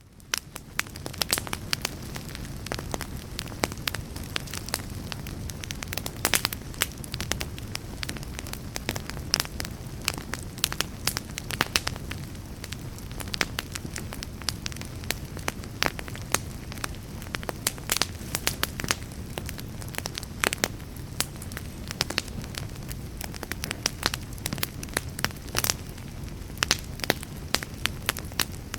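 Wood fire burning in a fireplace: a steady low rumble under frequent, irregular sharp crackles and pops. It fades in over the first second.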